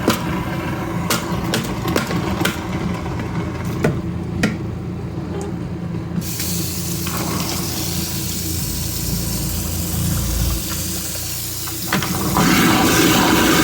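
Kitchen garbage disposer running and grinding ice, with a steady motor hum and sharp cracks and clatter of ice breaking up in the first few seconds. About twelve seconds in, a louder rush of running tap water joins it.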